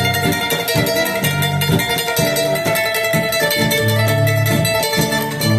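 A son band playing live: plucked string instruments pick a melody over a bass line that moves in short held notes.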